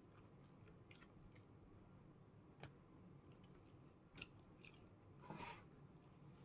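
Faint chewing of barbecued pork ribs, with scattered small wet mouth clicks. A short paper-napkin rustle a little past five seconds in is the loudest sound.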